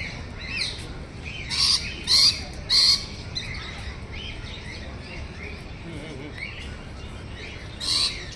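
Birds calling: four loud, harsh squawks, three in quick succession between about one and a half and three seconds in and one more near the end, over steady chirping and twittering of many smaller birds.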